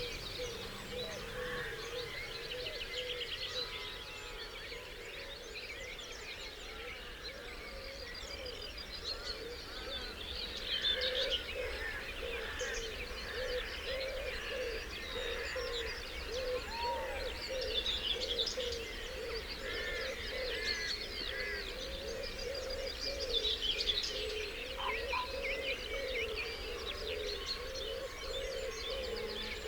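Dawn chorus of many English countryside songbirds singing and calling over one another, with quick high chirps and trills. A lower call repeats steadily underneath.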